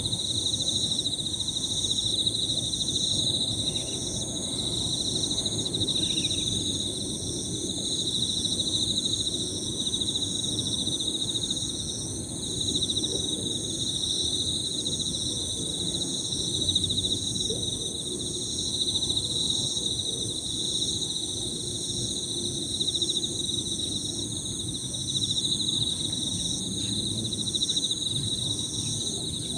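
Several Emma field crickets singing high, continuous, overlapping trills, one of them in a pulsed pattern repeating about once a second, over a low steady background noise.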